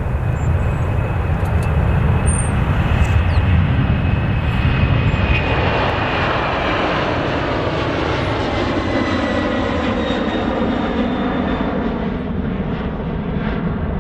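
Airliner engines passing close by, loudest in the first few seconds, their pitch falling slightly as the aircraft goes past and the sound slowly fades.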